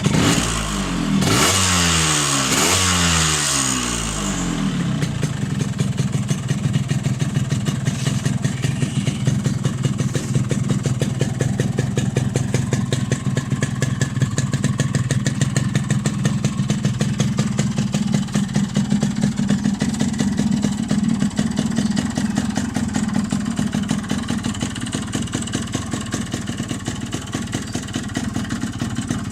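Yamaha RX 115 two-stroke single-cylinder motorcycle engine with its stock sound, blipped a few times in the first few seconds, then idling steadily.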